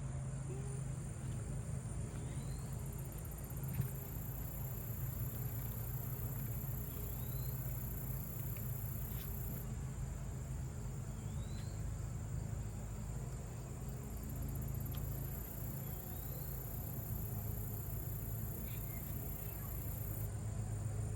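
Outdoor insect chorus, crickets trilling steadily, with a short rising chirp about every four seconds over a low steady hum.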